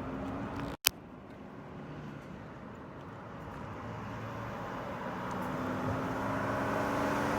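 Road traffic: a motor vehicle approaching and growing steadily louder, after a sharp click and a brief break about a second in.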